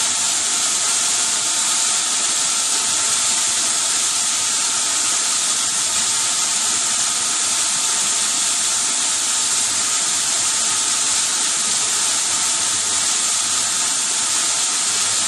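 Vertical twin band sawmill machinery running steadily: a loud, even hiss with a faint high whine of several steady tones underneath.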